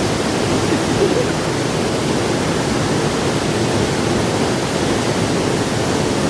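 Waterfall crashing steadily into its pool below, a continuous loud rush of falling water.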